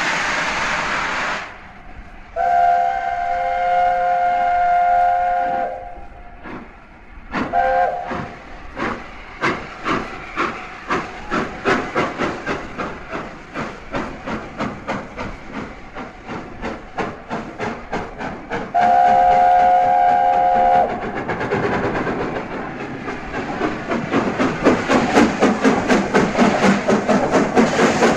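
Train sounds: a train horn sounds a steady chord of several tones for about three seconds, gives a short toot, and sounds again for about two seconds later on. Through the rest, wheels clickety-clack over rail joints in an even rhythm that grows faster and louder toward the end.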